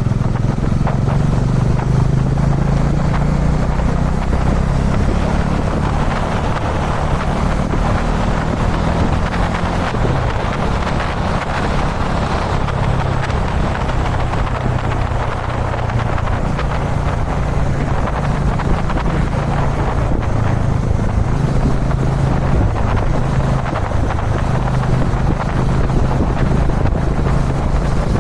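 Dominar 400 UG2's single-cylinder engine running steadily at expressway cruising speed, under heavy wind noise on the microphone.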